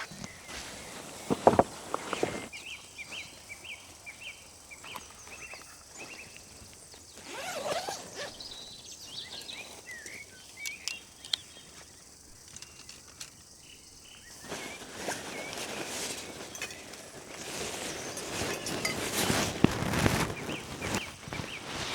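Outdoor ambience: a small bird giving a quick series of short high chirps, with a few sharp knocks early on and rustling, scuffing movement noise that grows louder near the end.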